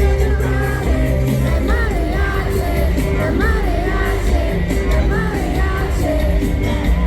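Live pop-rock concert music: a melodic sung lead vocal over a band with a heavy, steady bass.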